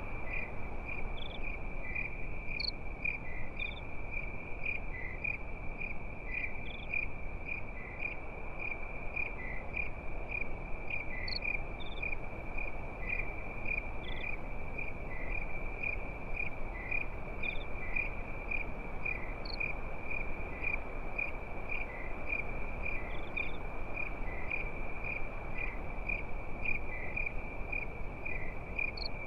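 Crickets chirping in a steady, evenly pulsing high trill, with a few scattered higher chirps, over a low even background noise.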